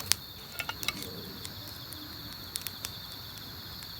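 Wood campfire crackling, with sharp pops scattered through, the strongest just after the start. Under it runs a steady high chirring of autumn crickets.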